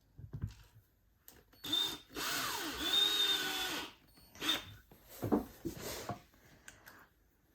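Cordless drill-driver driving assembly screws into a furniture panel. It runs for about two seconds with its pitch rising and falling, then gives a few short bursts.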